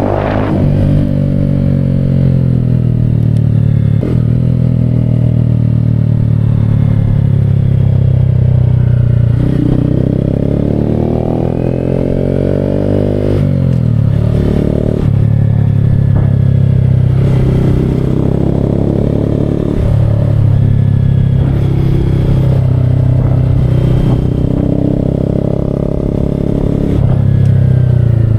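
Honda Grom's small single-cylinder four-stroke engine running under way. Its pitch climbs and drops again and again with throttle and gear changes, with a sharp fall about halfway through.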